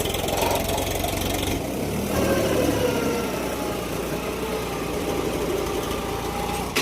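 Tractor diesel engine running. A fast, even firing beat for about the first second and a half gives way to a steadier hum for the rest.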